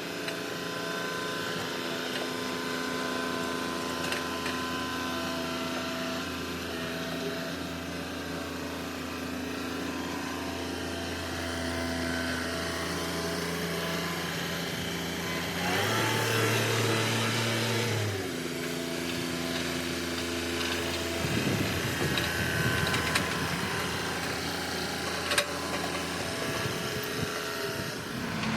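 John Deere 2038R compact tractor's three-cylinder diesel engine running steadily while working. Its pitch shifts and it gets louder for a couple of seconds past the middle, and rougher noise joins in over the last several seconds.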